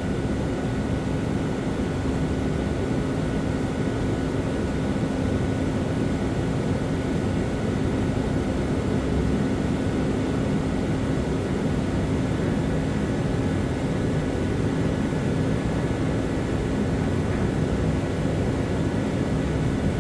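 Steady machine drone, like a running fan or motor, with a constant low hum and an unchanging level.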